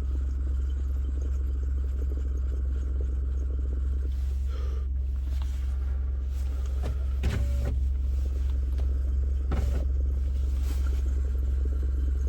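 Steady low rumble of a car engine running, with a few short knocks or clicks over it.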